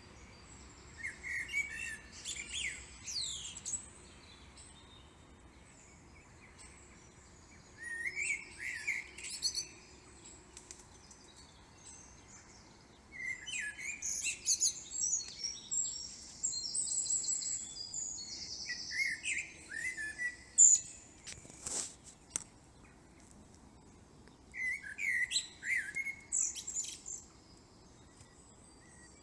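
Songbirds singing in bursts of high, chirping phrases with pauses of a few seconds between them, and a single sharp click about twenty-two seconds in.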